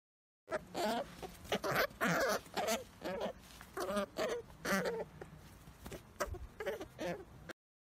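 An animal calling over and over in short pitched cries, about fifteen calls in seven seconds, starting suddenly and cutting off near the end.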